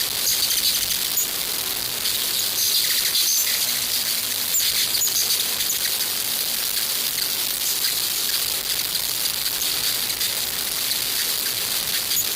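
Hummingbirds at a feeder giving short, very high chirps, scattered through, over a steady high-pitched buzz.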